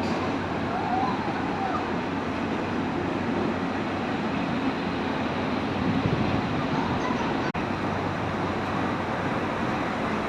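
Railway station platform ambience: a steady rumble and hum from trains and the station, with a brief break about seven and a half seconds in.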